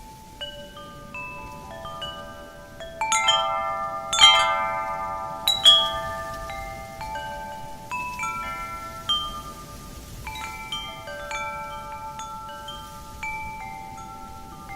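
Wind chime struck repeatedly by the wind, ringing in many overlapping, long-sustaining tones. A quick flurry of strikes about three to four seconds in is the loudest part, and the strikes grow sparser after that.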